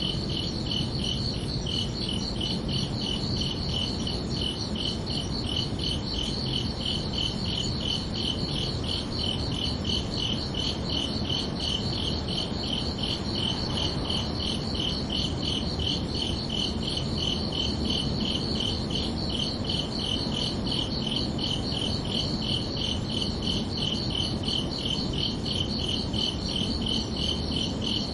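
Crickets chirping in a steady, evenly spaced rhythm of high-pitched pulses, over a constant low background hiss.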